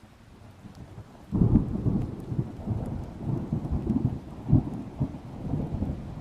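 A peal of thunder: a low rumble builds, then breaks into a loud crack about a second in. It rolls on as uneven, crackling rumbles with another sharp peak about halfway through, then eases off near the end.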